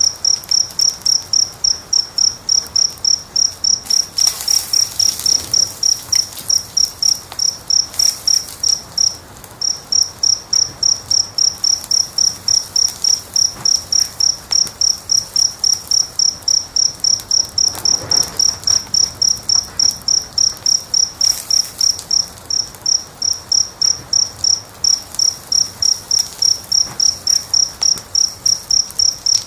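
A cricket chirping steadily, about three to four high chirps a second, with one short break about nine seconds in. Underneath, a few faint crackles of a wood fire.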